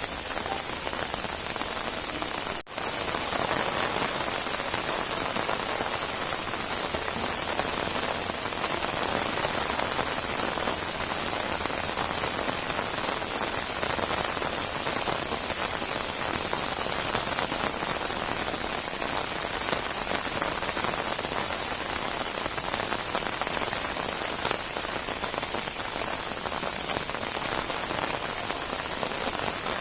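Rainstorm: steady rain pattering on surfaces, dense and even throughout, with a momentary drop-out of the sound a little under three seconds in.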